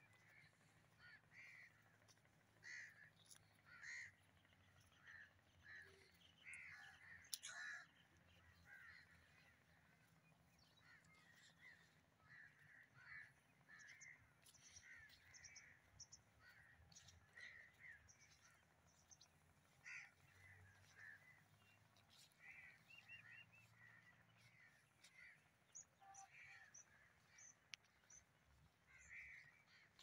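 Faint birds calling in the distance: short, harsh calls repeated roughly once a second, with the odd sharp tick.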